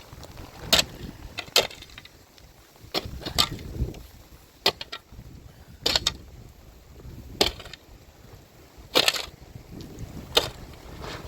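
A digging tool biting into soil in repeated crunching strokes, about ten of them at an uneven pace of one every second or so.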